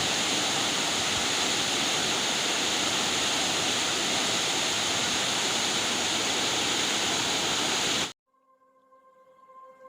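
Steady rush of a waterfall's falling water that cuts off suddenly about eight seconds in, followed by soft music fading in near the end.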